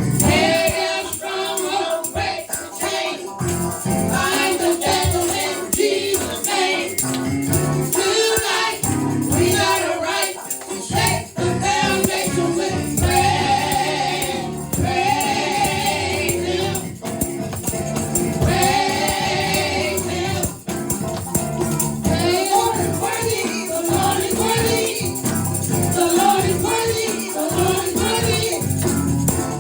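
Gospel praise team singing together with live band accompaniment, with steady percussion strokes keeping the beat.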